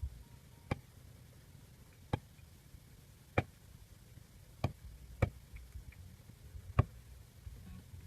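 Six sharp, separate knocks at uneven intervals of about one to one and a half seconds, like hard strikes on wood.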